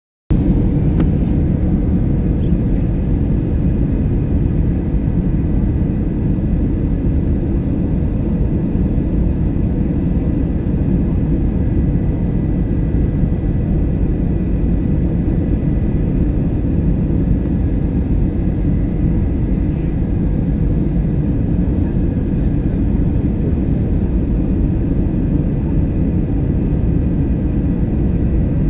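Airliner cabin noise heard from inside the cabin: a loud, steady rumble of jet engines and airflow, with a faint steady whine above it.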